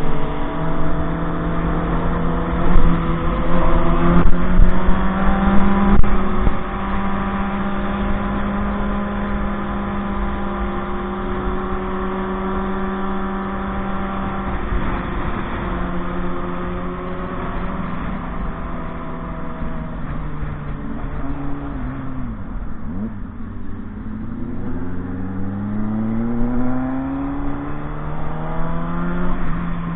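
Motorcycle engine running at a steady cruising pitch. About three-quarters of the way through it drops back, then rises steadily in pitch as the bike accelerates again.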